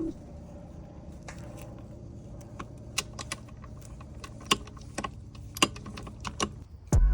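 Irregular, light metallic clinks and clicks, as of hand tools, sockets or bolts being handled, over a faint steady hum.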